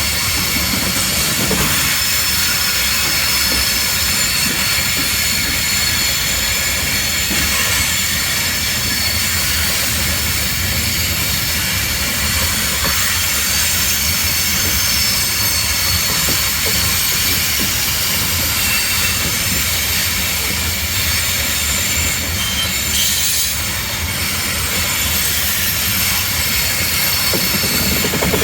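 Slow-moving Kansas City Southern train rolling past, its steel wheels squealing on the rails in several steady high tones over a low rumble.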